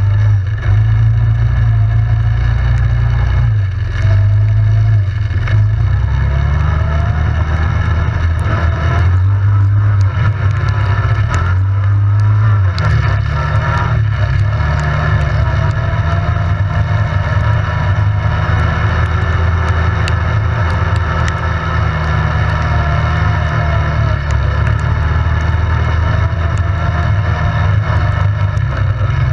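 ATV engine running while riding, its pitch rising and falling with the throttle, over a heavy low rumble.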